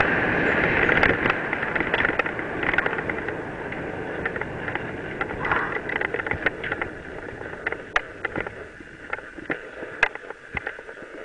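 Mountain bike riding down a dirt trail: a steady rush of wind and tyre noise, with many sharp rattles and knocks from the bike jolting over bumps and stones. The rush gradually fades as the bike slows.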